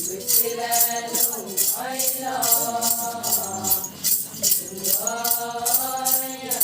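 A group of voices singing an Adi ponung chorus in long held notes, over a jingling rattle shaken in a steady beat about two to three times a second.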